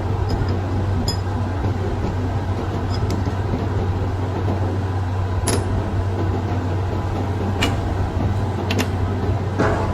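A workshop machine's motor humming steadily, with a few sharp metallic clicks over it.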